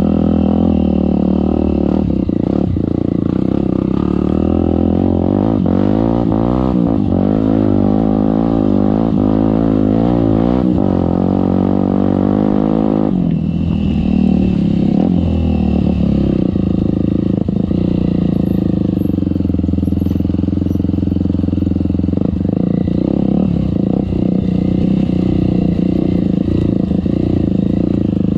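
Off-road trail motorcycle engine running under way, its revs rising and falling.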